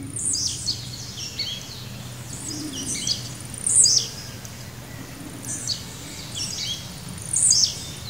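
Wild birds singing: repeated phrases of quick high notes that sweep downward, coming every second or so, the loudest about halfway through and near the end, over a faint low steady hum.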